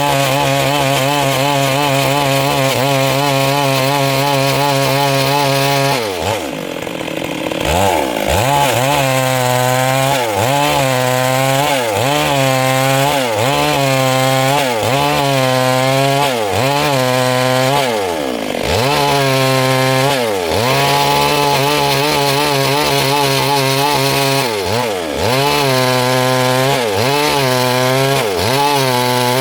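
Stihl MS 382 two-stroke chainsaw running at a steady high speed, then from about six seconds in its engine pitch dips and recovers roughly once a second as the chain works through wood under load.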